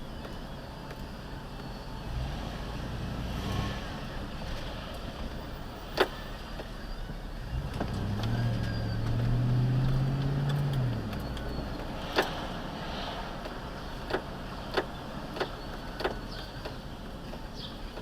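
Car engine and road noise heard from inside a moving vehicle. A low engine note rises about eight seconds in, holds for a few seconds, then falls away. Several sharp clicks or knocks sound along the way.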